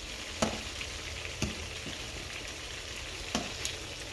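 Chicken wings frying in oil in a pan with a steady sizzle, and four sharp clicks of metal tongs against the pan as the wings are turned.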